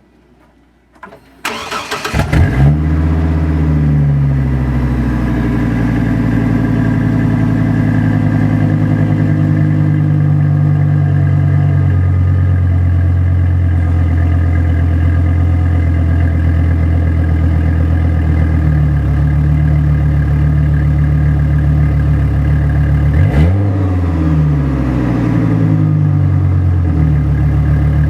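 A 2005 Chevy Colorado's 3.5-litre inline-five, breathing through a Thrush welded muffler cat-back exhaust, cranks and starts about two seconds in, then idles loud and steady with a throaty exhaust note. Near the end it is revved once, the pitch rising sharply and falling back, with a smaller blip just after.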